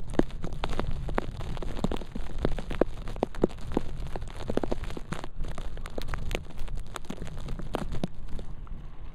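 Blizzard wind buffeting the camera microphone in a low, steady rumble, with many sharp, irregular crackles and ticks over it.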